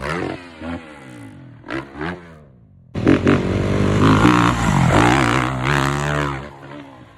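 Dirt bike engine revving: a couple of short throttle blips, then a longer run of rising and falling revs that fades away near the end.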